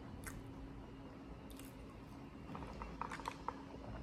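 Faint chewing of a french fry dipped in cheese sauce, with wet mouth sounds and a cluster of short soft clicks about two and a half to three and a half seconds in.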